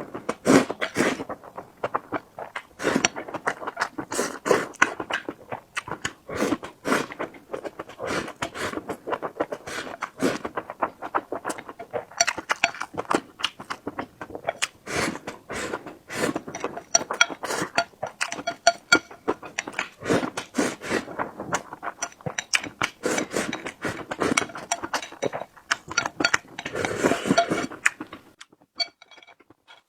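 Close-miked eating sounds: chewing and wet mouth sounds with many short clicks, and a few denser noisy stretches. It stops about two seconds before the end.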